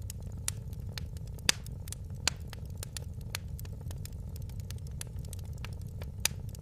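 Wood fire crackling in a fireplace: irregular sharp pops and snaps over a steady low rumble, the loudest pop about a second and a half in.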